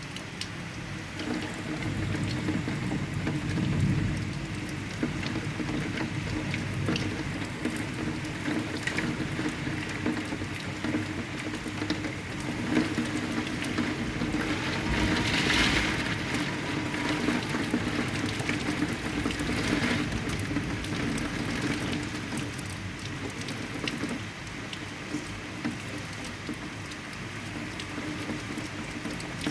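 Heavy rain falling steadily, with a low rumble of thunder a few seconds in. The rain swells briefly louder about halfway through.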